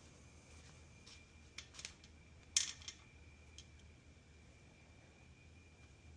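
Light metallic clinks and taps, about five over two seconds with the loudest about two and a half seconds in, as a connecting rod bearing cap and its bearing shell are handled and fitted by hand.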